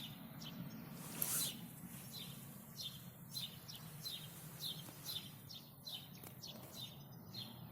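Small songbirds chirping faintly in short, repeated downward chirps, about two a second, with a brief rustle about a second in.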